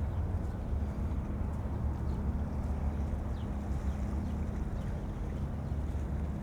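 Steady low rumble of outdoor city ambience with a constant low hum under it, and a few faint short high chirps, like small birds, above it.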